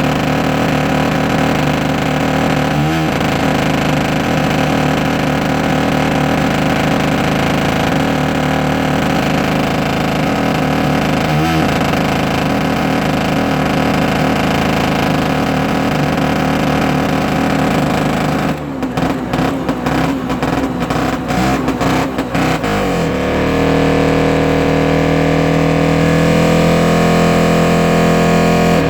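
DZ-143 motor grader's engine running during a cold start at −29 °C. About two-thirds of the way through it stutters and cuts in and out for several seconds, then settles into a steady, slightly louder running note.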